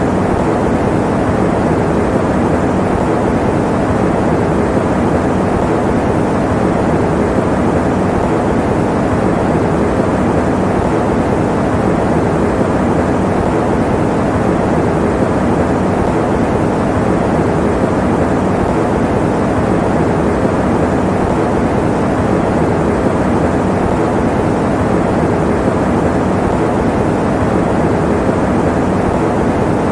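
Electric fan running steadily: an even, unchanging noise, strongest in the low and middle range, with little high hiss.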